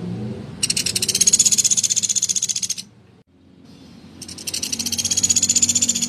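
Pelatuk beras woodpecker calling: two long, rapid rattling trills, each about two seconds, high-pitched and rising slightly in pitch, with a gap of about a second and a half between them.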